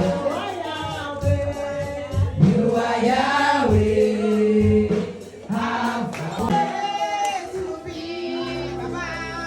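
Gospel choir singing over backing music with a steady bass line; the music thins out near the end.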